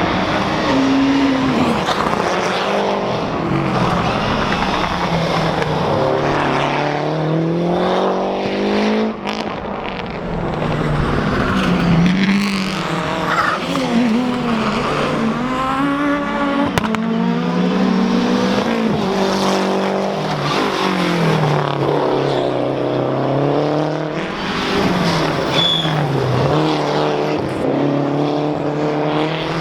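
Lancia Delta HF Integrale Group A rally car's turbocharged four-cylinder engine driven hard, its note climbing and dropping again and again as it accelerates, shifts and lifts off.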